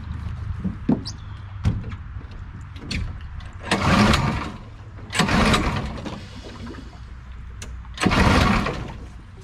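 Recoil pull-starter on a Predator small engine yanked three times, each pull a rushing zip of about a second, without the engine catching. The engine is chain-coupled straight to the jet drive, so every pull also turns the prop, which makes it hard to start.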